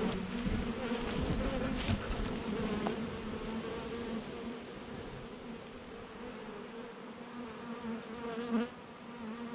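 A swarm of honeybees buzzing in flight, a steady hum of many bees that slowly fades. The bees have just been shaken off the branch where they clustered and are circling before finding the new box.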